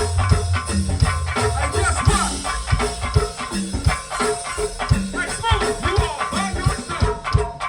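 Live gospel band playing an upbeat groove: a steady, dense drum and percussion rhythm over a sustained bass line.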